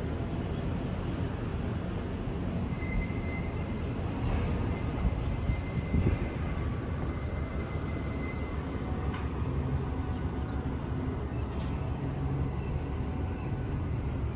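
Steady low rumble of the cruise ship Navigator of the Seas under way, with a couple of brief louder knocks about five to six seconds in.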